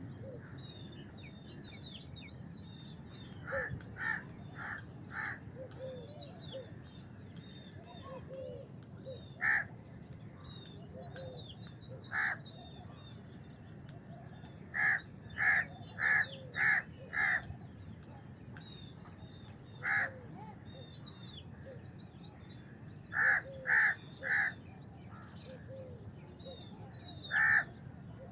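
House crows cawing: short, harsh caws in runs of three to six and singly, over steady high-pitched chirping of small birds.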